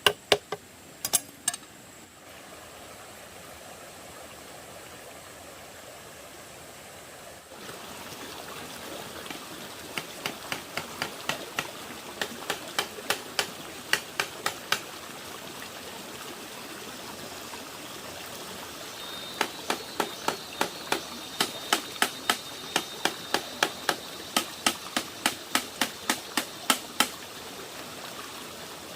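Steady rushing of running water, with two long runs of sharp, evenly spaced knocks, about two or three a second, like a hand tool striking wood.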